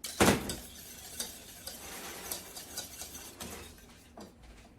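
A whisk stirring thickening leave-in conditioner in a pot: one loud knock just after the start, then steady scraping and light clicking against the pot that fades toward the end.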